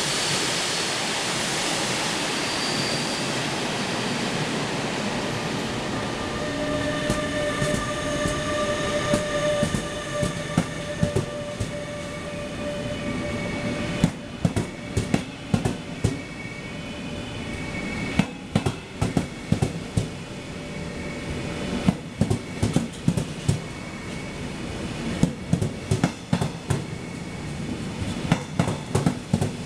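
A train passing on the rails: a steady rumble, then a high, multi-toned squeal from the wheels for several seconds, then the wheels clacking over rail joints in quick groups of clicks from about halfway through.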